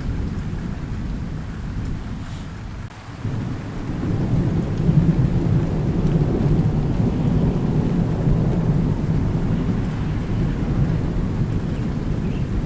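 Thunderstorm: steady rain with deep rolling thunder that eases off, then swells again about three seconds in and keeps rumbling.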